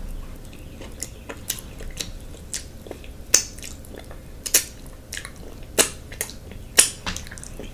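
A person chewing food close to the microphone with wet mouth smacks: a string of sharp smacks, the loudest about a second apart, over quieter chewing.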